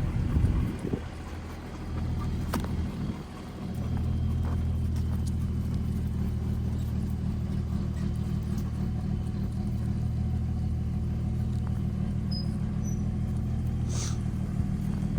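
Truck engine running steadily with a low, even drone, dipping for a couple of seconds near the start before settling. A single sharp click about two and a half seconds in.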